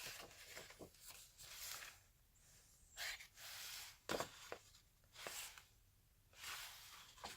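Soft rustles and swishes of handmade journal paper pages being unfolded and turned, a few brief ones spread through an otherwise quiet stretch.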